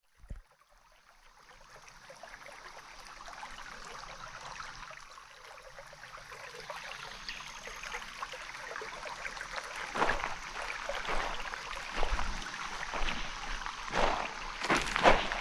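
Steady rush of a small stream fading in, then from about ten seconds in, footsteps on the trail, roughly one a second and getting louder.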